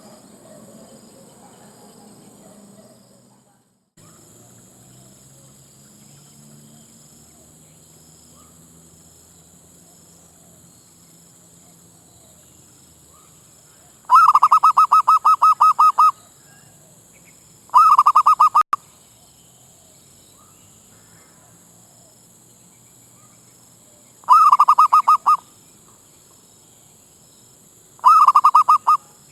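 Zebra dove (merbuk) calling in four loud bursts of rapid staccato cooing notes. The first burst lasts about two seconds, the other three about a second each.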